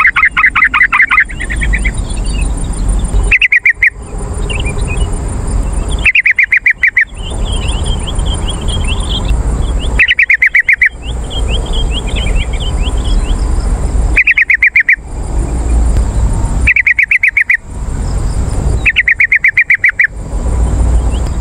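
Yellow-vented bulbul (trucukan) calls: a loud, rapid chattering trill repeated in short bursts every few seconds, with softer warbling notes in between.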